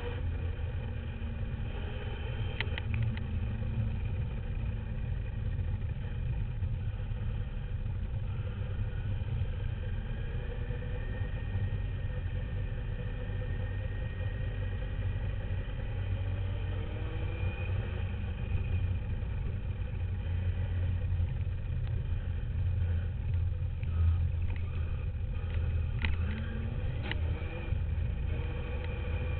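Duratrax radio-controlled dirt bike running, heard from a camera mounted on it. There is a steady low rumble of wind and ground, and a faint motor whine rises and falls in pitch as it speeds up and slows. A few sharp knocks come from bumps, one early and two near the end.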